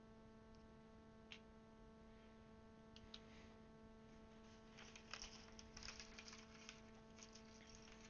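Faint small plastic clicks and clatter of keyboard keycaps being handled and pressed onto the switches: a single click, a few more, then a busier run of clicks, over a steady low electrical hum.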